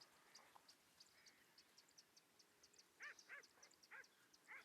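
Faint outdoor bird calls: a rapid, high-pitched chirping runs throughout, and four short, arching calls come in the second half, the loudest sounds.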